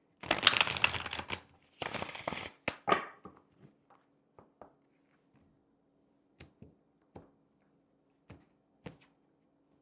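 A deck of oracle cards shuffled by hand: two dense runs of card flutter in the first two and a half seconds, then a few separate soft clicks as the cards are handled.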